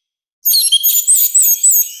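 Orange-headed thrush singing loudly: after a short gap, a rapid phrase of high, sliding whistled notes begins about half a second in.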